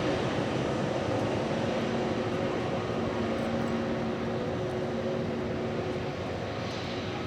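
Airbus A321neo airliner's jet engines running at taxi power, a steady hum with a few held tones, slowly fading.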